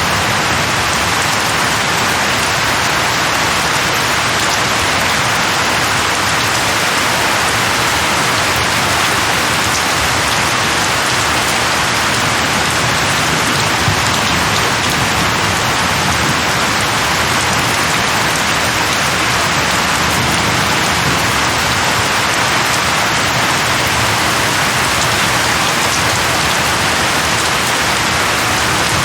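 Steady, even rainfall: a constant hiss of rain falling on a surface, with no thunder or gusts.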